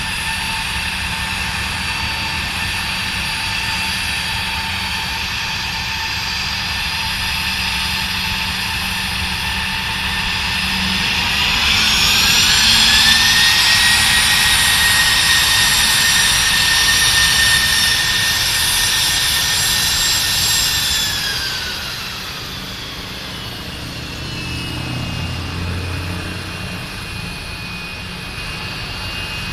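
Aircraft turbine engine whine at an airfield. About 11 seconds in, the whine rises in pitch and gets louder, holds steady for about nine seconds, then drops in pitch and fades away.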